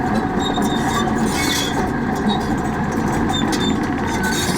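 Heavy earthmoving machinery working: a steady diesel engine rumble with brief high metallic squeaks and scattered clanks over it.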